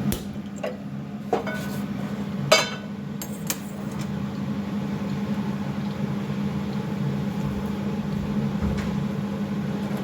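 A few clinks and knocks of kitchen dishes being handled, the loudest about two and a half seconds in, then only a steady low hum.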